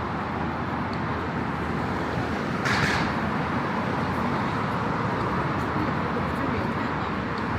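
Steady road traffic noise from passing cars on a busy city street, with one short, louder burst of noise about three seconds in.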